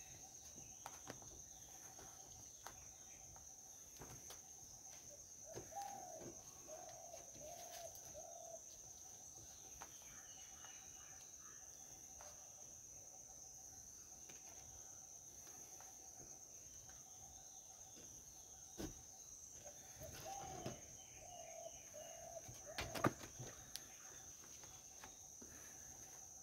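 Faint outdoor ambience: a steady high-pitched insect drone, with a bird giving the same short warbling call twice, about fourteen seconds apart. A few light knocks come near the end.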